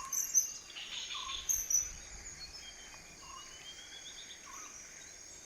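Tropical forest ambience: insects chirping steadily at a high pitch, a short low call repeating about once a second, and a few bird chirps, busier in the first two seconds.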